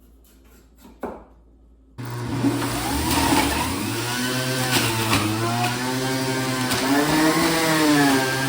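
An electric juicer switched on about two seconds in and running loudly with a steady hum, its pitch repeatedly sagging and recovering as produce is pushed into it.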